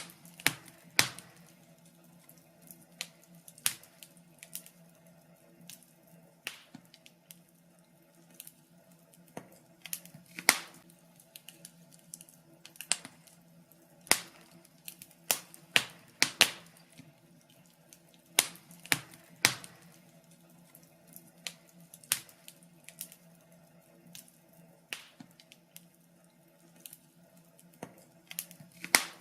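Wood fire crackling: irregular sharp pops and snaps, sometimes several close together, over a faint steady hum.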